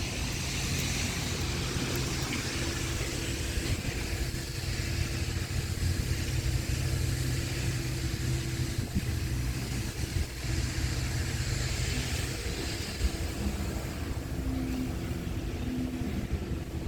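Subaru EJ201 2.0-litre flat-four engine running steadily, its note changing about twelve seconds in.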